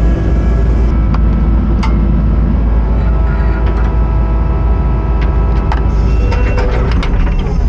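Kubota SVL75-2 compact track loader's diesel engine running steadily at working speed, with scattered sharp metallic clanks.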